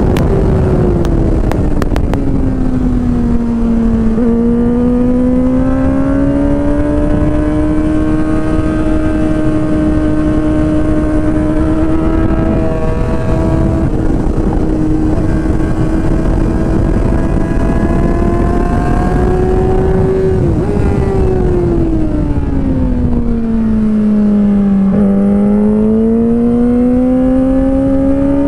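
Yamaha R6 inline-four sport bike engine at high revs on track, heard on board over heavy wind noise. The engine note drops near the start, holds high for a long stretch, dips sharply about twenty seconds in, then falls further and climbs again near the end, as the rider brakes and accelerates.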